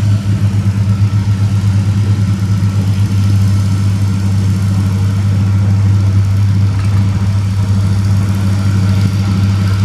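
Antique farm tractor engine running at a steady pitch, a loud low drone that throbs for the first few seconds and then evens out.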